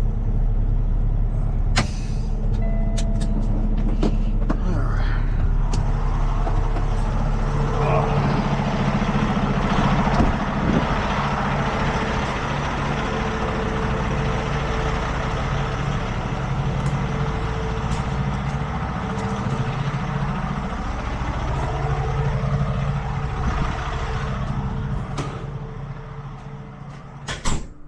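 Tow truck's engine running while the truck moves slowly, its note rising and falling as it is manoeuvred, with a sharp knock near the end.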